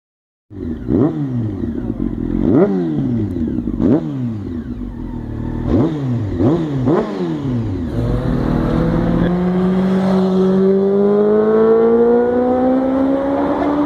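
Motorcycle engine revved in about six sharp throttle blips, each pitch quickly rising and falling. About eight seconds in it changes to one long acceleration, the pitch climbing steadily.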